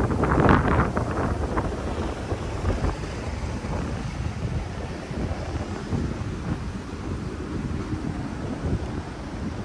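Wind buffeting the microphone as a low, uneven rumble, loudest in a gust during the first second or so.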